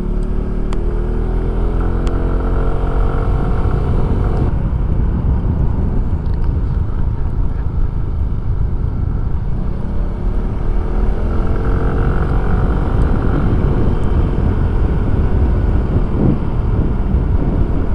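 Suzuki Address 110 scooter's single-cylinder engine running under way, heard through a helmet microphone under heavy wind rumble. Its note rises and falls gently as the speed changes.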